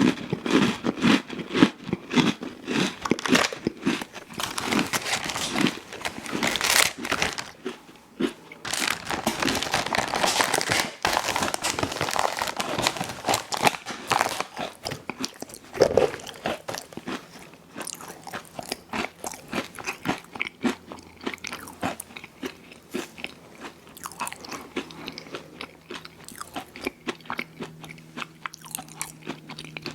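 Close-miked eating of an ice cream sandwich: bites and crunching come thick and loud through the first half, with one sharp crunch about halfway. Quieter, softer chewing follows through the second half.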